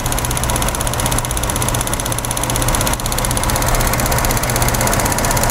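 Car engine idling steadily, with the alternator under test charging.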